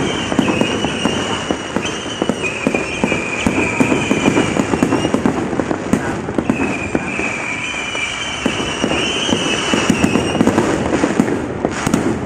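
Fireworks display: a dense, continuous run of rapid crackling pops and bangs, with shrill whistling tones riding over it for several seconds at a time.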